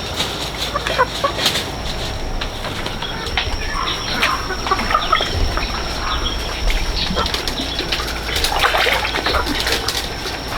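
Farmyard animal sounds: scattered rustling and scratching with brief animal calls.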